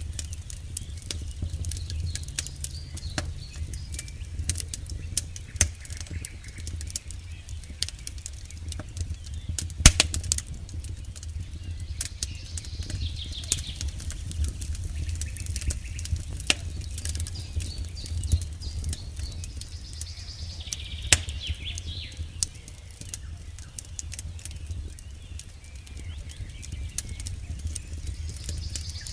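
Campfire crackling: burning wood pops and snaps in quick irregular clicks, with a sharper pop about ten seconds in and another about two-thirds of the way through, over a steady low rumble. A faint high chirping comes in now and then.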